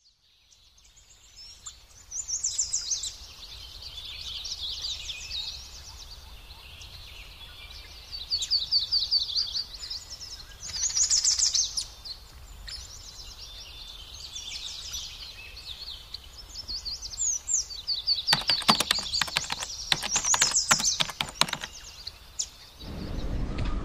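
Birds singing: repeated high, rapid chirping trills in short phrases. Near the end comes a louder run of sharp clicking notes.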